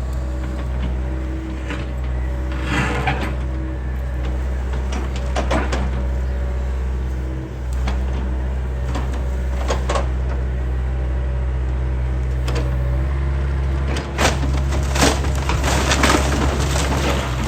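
Excavator engine running steadily while the wooden house frame cracks and splinters as it is torn apart, with scattered sharp cracks that come thickest in the last few seconds.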